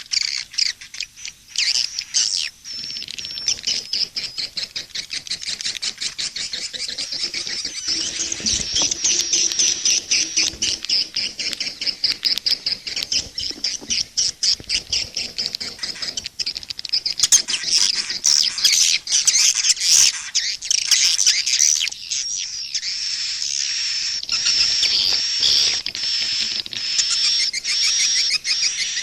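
Edible-nest swiftlets calling in a dense, continuous chorus of rapid clicks and high chattering trills. This is a mixed swiftlet lure recording, the 'SP' calling track played to draw swiftlets into a swiftlet house.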